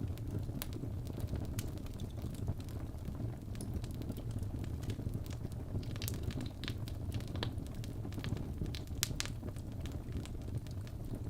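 Wood fire burning in a fireplace: a steady low rumble of the flames with irregular sharp crackles and pops from the logs, a busier run of crackles in the second half.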